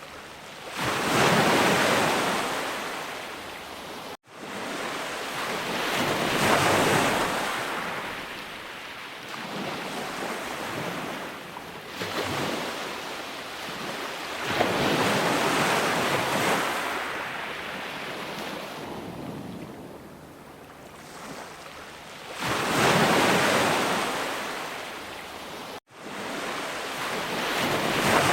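Ocean waves breaking on a shore, the surf swelling and washing back in every few seconds. There are two very short dropouts in the sound, one early and one near the end.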